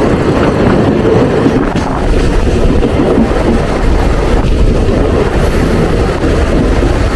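Mumbai suburban local train running at speed, a loud steady rumble heard from inside the carriage.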